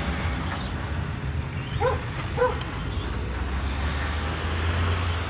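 A dog barking twice in quick succession about two seconds in, over a steady low rumble.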